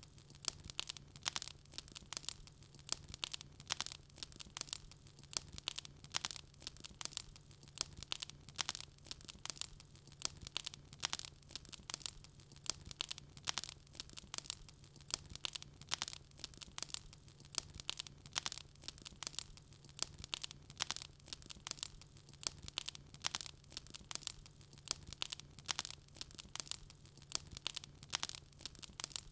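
Wood fire burning in a fireplace, crackling and popping constantly with many sharp snaps a second over a faint low hum.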